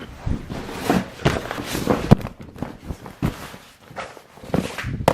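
Irregular knocks, taps and rustling as polymer clay is handled and pressed on a work surface, with louder thuds about two seconds in and near the end.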